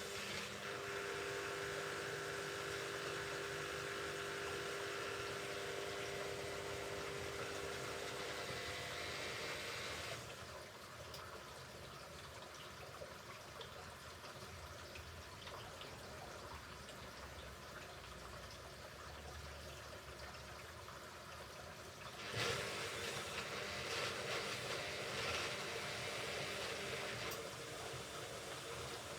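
Hoover Ecologic Computer Washer 1300 washing machine during its rinse, with water rushing through it over a steady hum that stops about ten seconds in. After a quieter spell, a louder rush of water sets in for several seconds near the end.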